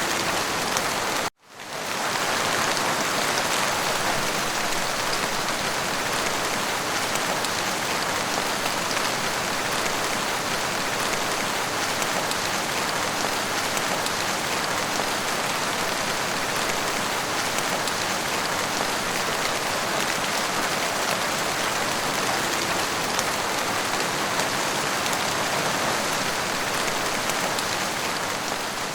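Steady, dense rainfall. It cuts out abruptly for a split second about a second and a half in, then fades back in, and starts to fade out near the end.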